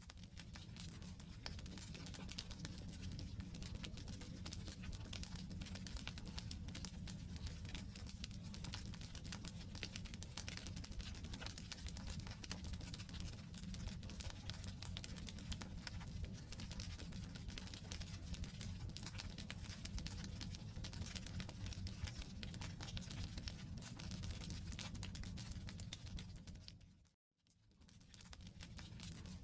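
Wood campfire burning, with a dense, continuous crackling and snapping of the logs over a low rumble. The sound fades out briefly near the end and comes back.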